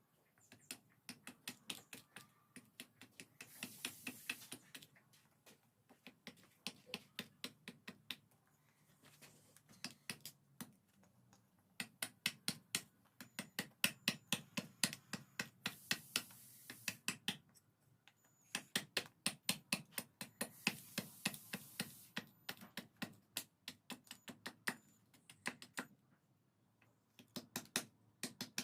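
Rapid light tapping strikes in bursts of several seconds, several a second, with short stretches of hiss in between: hand tools working a knife blank.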